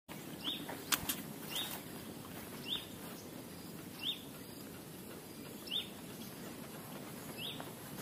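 A bird repeats a short, high chirp six times, about one to one and a half seconds apart, over a low outdoor rustle. Two sharp clicks about a second in are the loudest sound.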